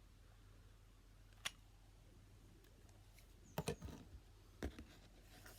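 A few short clicks and taps from hands handling small craft materials, one about a second and a half in and a small cluster near the end, over a faint low hum.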